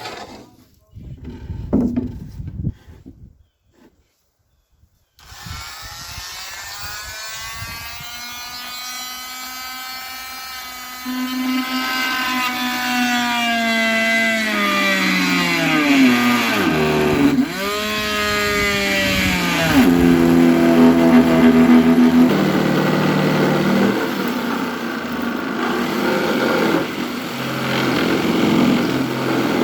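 A few knocks, then an electric power tool's motor running. Its pitch sags sharply twice as it bogs under load, then recovers and runs on steadily.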